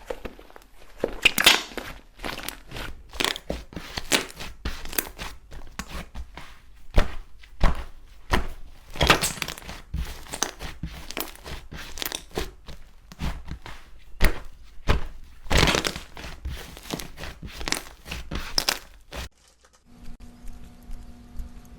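Slime being squeezed and pressed by hand, giving an irregular run of crackles, pops and crunches. About nineteen seconds in it cuts off abruptly to a quieter passage with a steady low hum.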